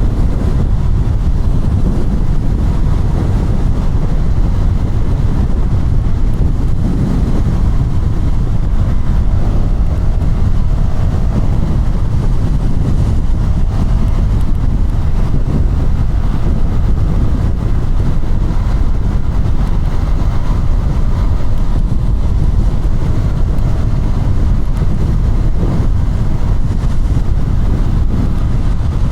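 KTM Duke 200's single-cylinder engine running at road speed, under heavy wind noise on the camera microphone that gives a loud, steady rumble.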